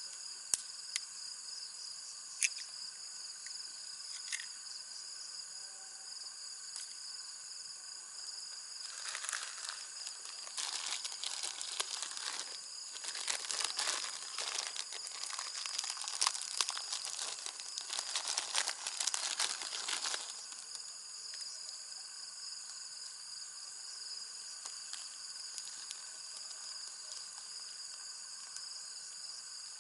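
Steady chorus of insects in several high, even tones, overlaid for about ten seconds in the middle by dense crinkling and crackling, like something being crumpled or handled.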